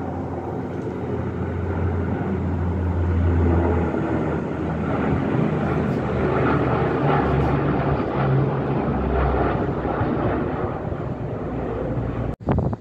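Lockheed C-130 Hercules flying by with its four turboprop engines running: a loud, steady drone that swells in the first few seconds and then holds. It cuts out for an instant near the end.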